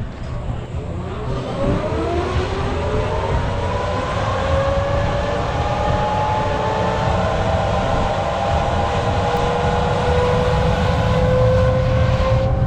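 MiG-17's centrifugal-flow turbojet spooling up on start: a whine of several tones rising in pitch from a couple of seconds in and levelling off toward a steady run, over a heavy low rumble.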